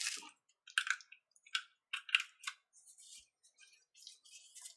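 Handling noise: a string of short, irregular rustles and light clicks, the strongest about a second in and around two seconds in.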